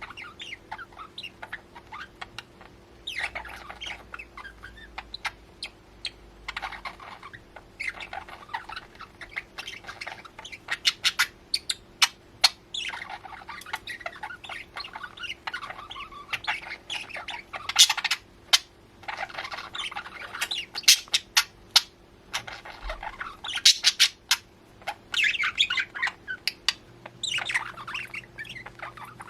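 Two small pet birds chattering, with quick runs of chirps and sharp squawks coming in bursts throughout, over a faint steady hum.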